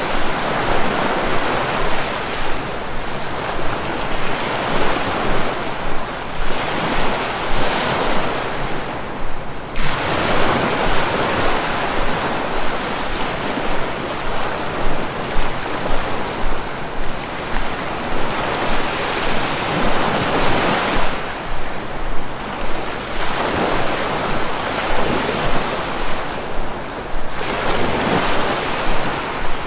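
Sea waves breaking and washing on the shore, the surf rising and falling in swells every few seconds, with wind noise.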